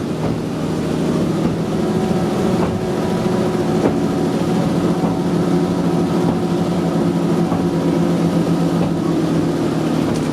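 Diesel-powered tourist tram running along the track, its engine droning steadily, with a few sharp clicks.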